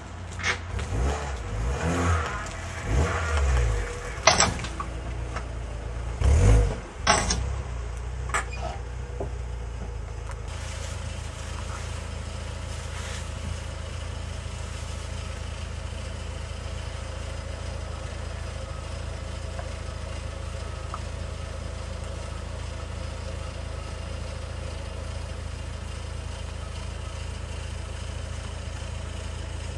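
A car engine revving unevenly in the first few seconds, with a few sharp knocks among it, then idling steadily.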